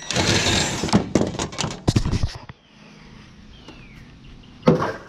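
A second of rustling noise, then a quick run of clattering knocks lasting about a second and a half, and a single sharp thump near the end.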